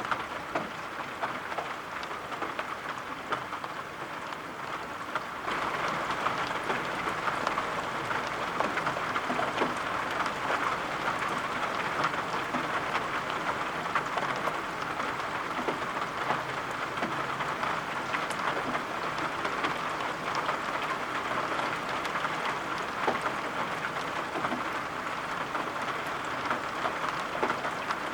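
Steady rain falling, with many small drop taps scattered through it; the rain grows louder about five seconds in.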